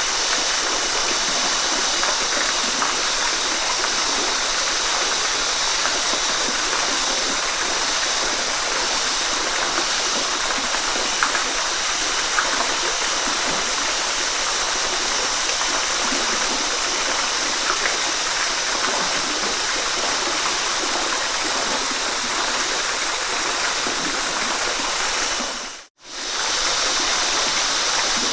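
Waterfall rushing in a steady, even hiss of falling water. It fades out to a moment of silence about two seconds before the end and then returns, like an edit in the recording.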